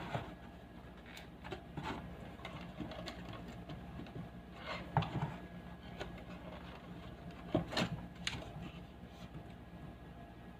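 Scattered light clicks and knocks, as of small objects or tools being handled, over a faint steady low hum.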